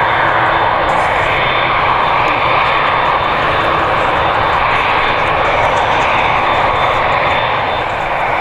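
Jet airliner engines running loudly, a steady rushing noise with a faint high whine held throughout.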